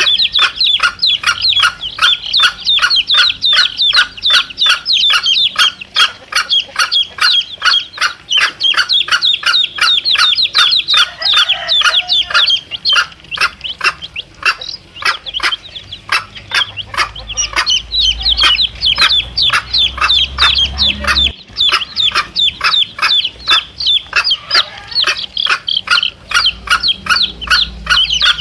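Domestic chicks peeping without a break, about three or four high calls a second, each note falling in pitch.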